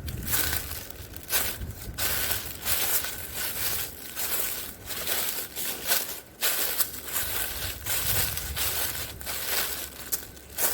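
Footsteps crunching and rustling through dry leaf litter and brush, in an irregular walking rhythm.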